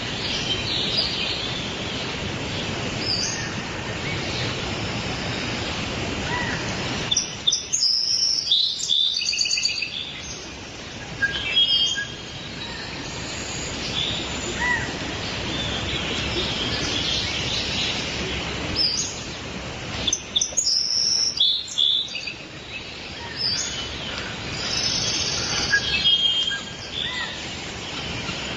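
Birds chirping and calling over a steady background hiss, with clusters of rapid, high chirps that come and go.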